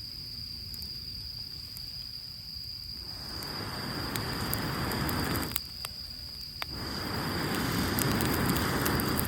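Two long blows of breath onto a struggling campfire of rain-wet wood to keep the embers alight, each about two and a half seconds and swelling louder, with a gap of about a second between them. Small crackles from the fire come through.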